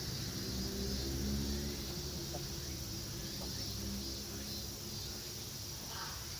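Steady chirring of insects in a late-summer campground, over a low steady hum.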